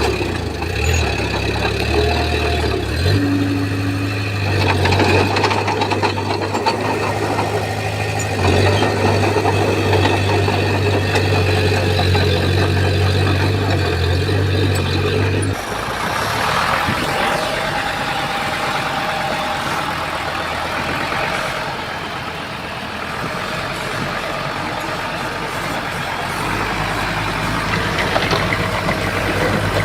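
Heavy diesel engine of a bulldozer running with a strong, steady low drone. About halfway through the sound changes abruptly to a quieter, noisier engine sound, and the low drone comes back near the end.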